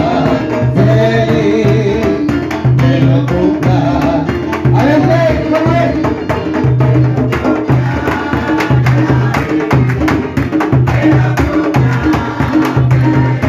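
Candombe band music: drums in a steady rhythm under a repeating low bass line, with singing over the top.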